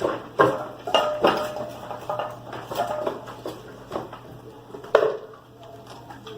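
Dog food bowls clattering and clanking in a quick run of knocks, with one loud clank about five seconds in before it dies down.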